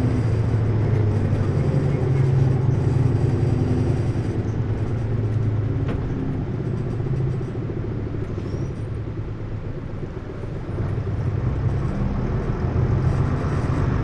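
Hino U-HT2MLAA bus's diesel engine running under way, steady at first, easing off about eight seconds in and pulling harder again near the end. The engine tends toward an abnormal noise, a worn sound near the end of this bus's service life.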